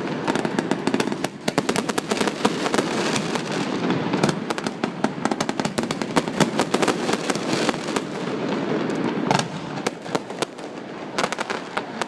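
Fireworks display: a dense, continuous crackle of many rapid pops and bangs, thinning out and getting quieter in the last couple of seconds.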